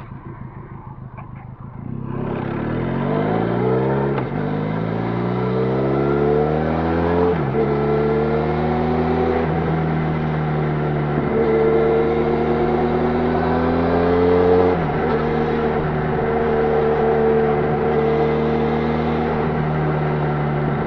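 Benelli Leoncino 500 parallel-twin engine on its stock exhaust pulling hard from about two seconds in. Its note rises and drops sharply twice as it shifts up, then holds a fairly steady cruising note with small throttle changes.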